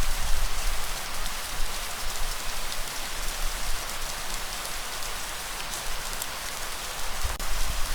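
Steady rainfall: an even hiss of rain with scattered individual drops pattering on a surface. A low rumble swells briefly near the start and again near the end.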